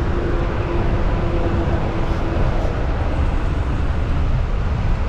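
Steady low rumble of a vehicle running, with a faint hum that fades out about halfway through.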